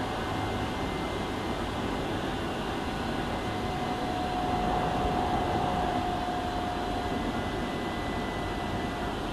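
Hankyu 7000-series electric train running, heard from inside the carriage: a steady rumble of wheels on rail with a faint whine that grows a little stronger midway.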